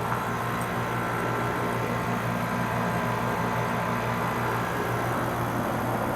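Carrier Comfort Series 5-ton heat pump outdoor unit running steadily, its compressor humming with the fan. A higher whine over the hum fades out about five seconds in.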